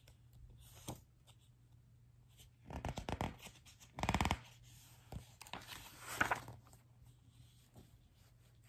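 Paper pages of a picture book being handled and turned: a run of short rustles and clicks, with the loudest flap of the page about four seconds in and a softer rustle around six seconds.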